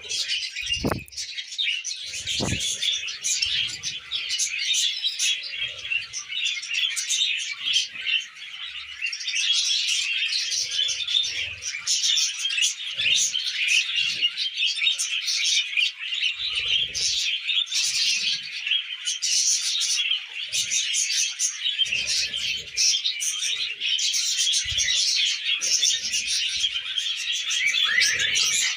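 A flock of budgerigars chattering and warbling nonstop in quick, overlapping chirps, with a few soft knocks among them.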